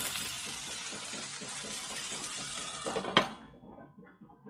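Sliced onions and tomatoes sizzling in a frying pan, a steady hiss. It stops suddenly with a sharp knock about three seconds in, and then goes quiet.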